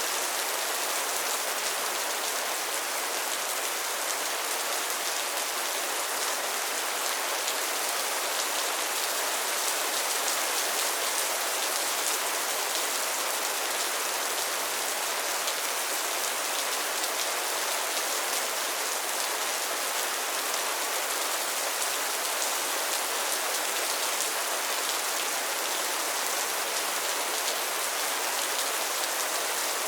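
Steady rain falling on a pond and its lily pads: an even hiss of countless small drops, mostly high in pitch with little low end, unchanging throughout.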